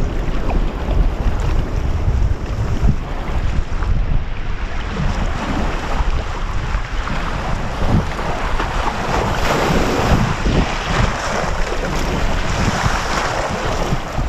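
Strong wind buffeting the microphone over the rush and splash of waves around a sea kayak under way on open water. The wind gusts and the water noise swells for a few seconds past the middle.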